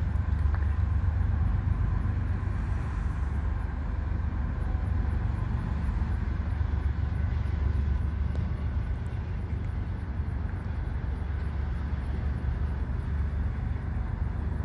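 Steady low rumble of a loaded Union Pacific coal train's hopper cars rolling past in the distance.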